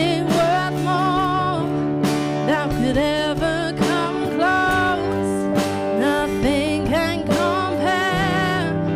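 A live worship band playing a slow song, with a singer holding long notes with vibrato over sustained low chords that change twice.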